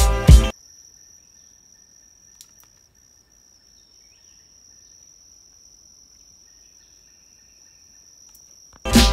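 Faint, steady, high-pitched insect trill from the woods, held without a break for about eight seconds. A music track cuts off at the start and comes back near the end.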